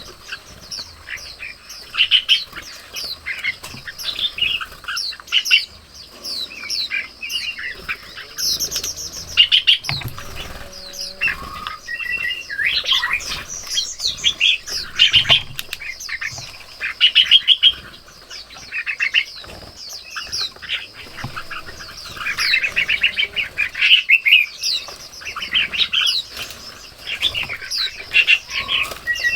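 Birds chirping and calling in a busy, overlapping chorus of short chirps and rapid trills, over a faint steady high-pitched buzz.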